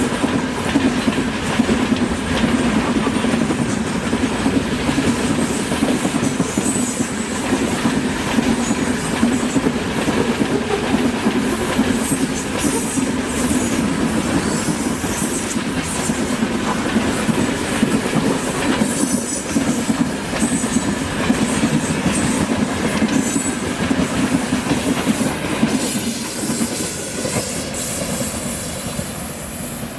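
Freight train wagons rolling past, a steady clatter of wheels over the rails with some high wheel squeal. The noise starts to fade in the last few seconds as the train moves off.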